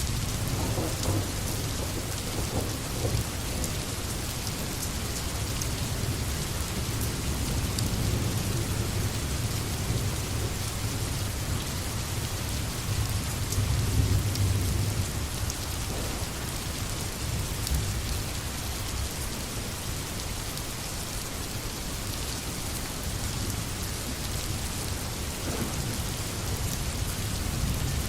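Steady heavy rain falling on a forest, pattering on leaves, with a low rolling rumble of distant thunder that swells about halfway through.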